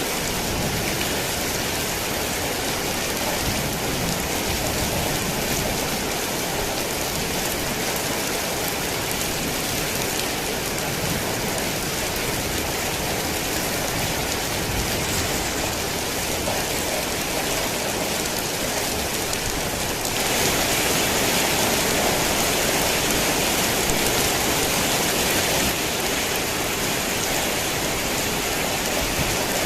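Rain falling steadily, a continuous even hiss of drops. It grows a little louder for about six seconds, two-thirds of the way through.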